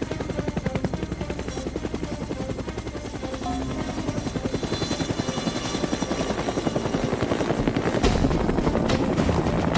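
Helicopter rotor sound effect, a fast steady chopping beat.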